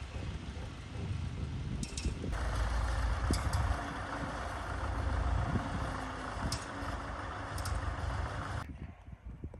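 An engine running with a low rumble, with a few sharp clicks.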